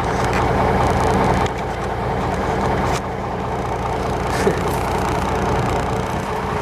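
The Cummins NHC 250 inline-six diesel of an M931A1 5-ton army truck idling steadily.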